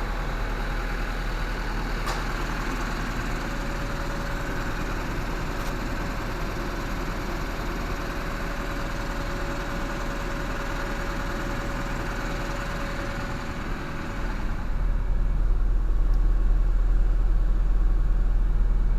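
Engine idling steadily. About three-quarters of the way through, a heavy low rumble takes over and the sound grows louder.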